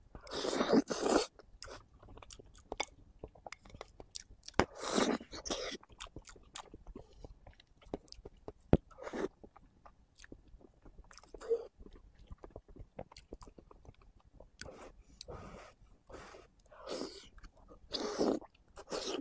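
Close-miked chewing of soft braised pig brain: wet mouth sounds and small clicks, with louder bursts as mouthfuls go in near the start, around five seconds in, and near the end.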